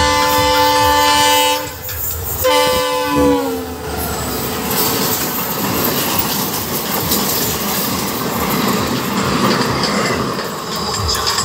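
Indian Railways locomotive horn: one blast ending about two seconds in, then a second that drops in pitch as the locomotive goes by. The passenger coaches then pass close and fast, a steady rushing rattle of wheels on the rails.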